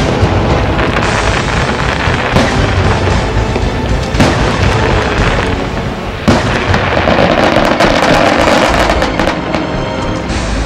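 Aerial firework shells bursting in rapid succession: a string of sharp booms over a continuous dense crackle, with one of the loudest bursts about six seconds in.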